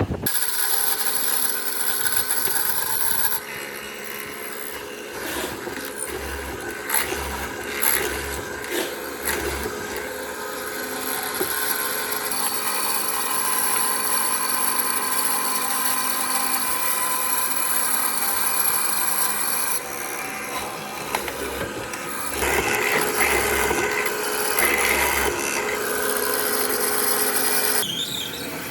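A power tool running against wood, with a steady motor whine under a rough grinding noise. The sound changes character several times, with a few sharp knocks between about five and nine seconds in.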